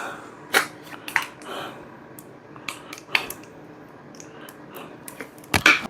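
Kitchen handling noises: scattered light clicks and knocks of utensils and containers on a counter, with a small cluster of sharper knocks near the end.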